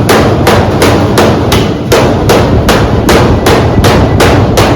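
Steady hammering on sheet-metal ductwork while a damper is fitted, about three sharp blows a second.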